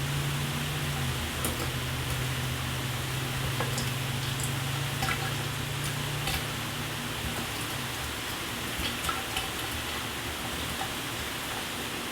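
Shower water spraying in a steady hiss, with scattered drops pattering. A low hum underneath fades out about two-thirds of the way through.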